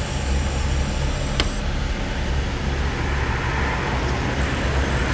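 Motorcycle engine running steadily, a low hum with road and wind noise, and one sharp click about a second and a half in.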